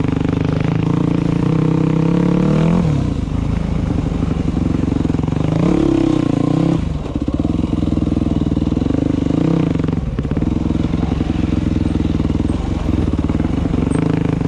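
Dirt bike engine running while riding, the revs rising and falling, with drops in pitch about three seconds in and again around seven and ten seconds.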